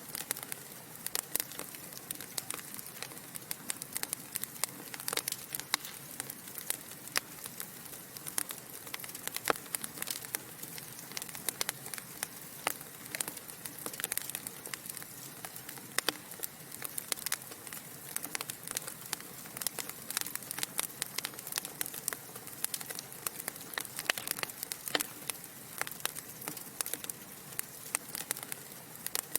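Wood fire burning in a fireplace, logs crackling with frequent sharp, irregular pops over a soft steady hiss.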